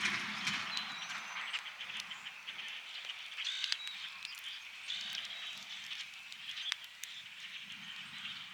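Wood campfire crackling with scattered sharp pops over a steady outdoor chorus of small animal calls, with a few short bird chirps. A low distant rumble fades out within the first second.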